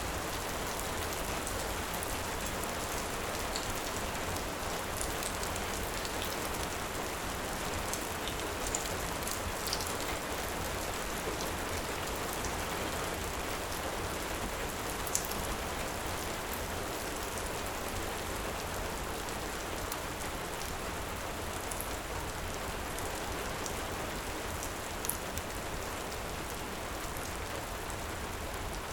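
Steady heavy rain hissing without a break, with a few scattered sharp ticks.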